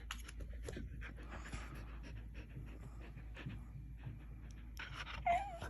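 Samoyed dog panting in quick breaths, then a short, wavering, whine-like vocal sound, its 'talking', about five seconds in.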